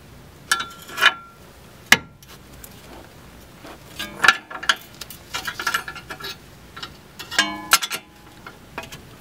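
Small steel pry bar levering between a lower ball joint and the control arm to pop the joint loose: a series of sharp metallic clicks and knocks, busiest about halfway through, with a short ringing clang near the end.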